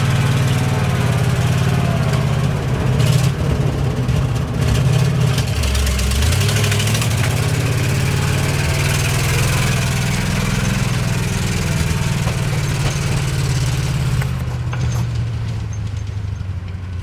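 The engine of a 1971 International 1890 plow truck running under way, heard with road and wind noise. The engine note shifts briefly about six seconds in and then carries on, and the higher noise dies down near the end.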